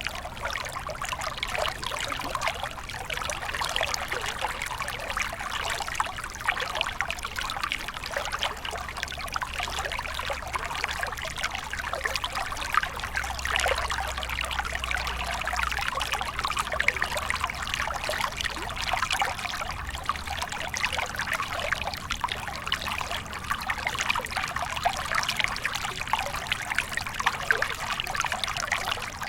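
A small stream flowing and trickling over stones: a steady, dense babble of small splashes.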